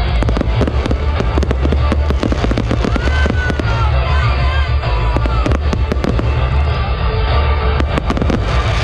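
Aerial fireworks bursting and crackling, many sharp pops in quick succession, over loud stage music with a heavy steady bass.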